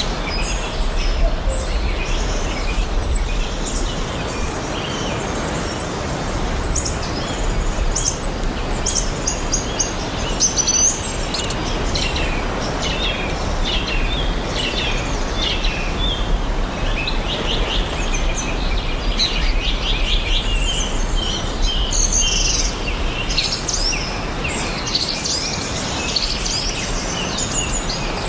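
Several wild birds chirping and singing in overlapping calls, with a fast trill near the end, over a steady background rush.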